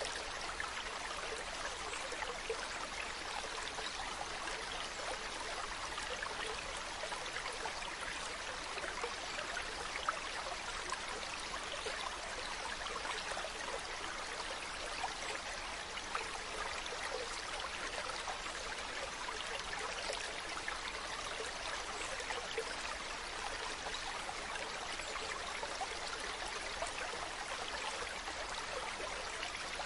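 Mountain stream running steadily, an even rush of water with small splashes and trickles.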